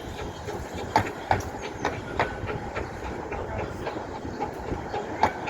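Train of the Romney, Hythe & Dymchurch Railway, a 15-inch gauge miniature line, running along the track: a steady rumble with sharp clicks of the wheels over rail joints, some coming in quick pairs.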